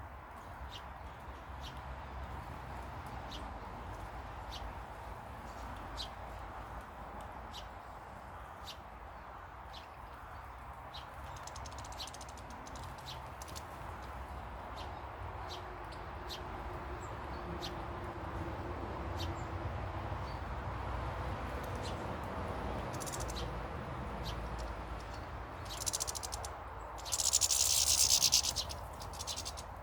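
Small garden birds giving short, sharp high chirps every second or so over a steady background hum, with a louder, noisy burst lasting about a second and a half near the end.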